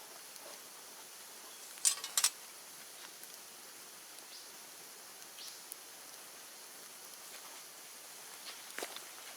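Bonfire of cleared bamboo burning: a steady faint hiss, two sharp pops close together about two seconds in, and a few smaller crackles near the end.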